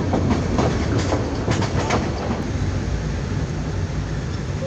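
Passenger train running on the track: wheels clicking over rail joints during the first two seconds, then a steady rumble that slowly fades.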